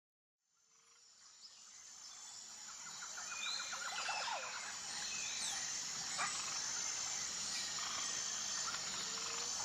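Rainforest ambience fading in from silence: a steady high-pitched drone of insects with scattered bird calls, including a quick trill about three seconds in.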